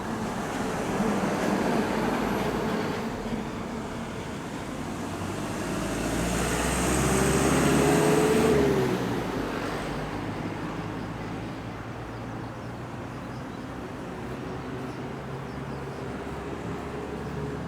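Passing traffic. One vehicle grows louder and goes by about eight and a half seconds in, its pitch dropping as it passes.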